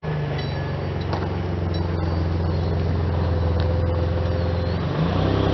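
A vehicle engine running at a steady speed, its note shifting about five seconds in.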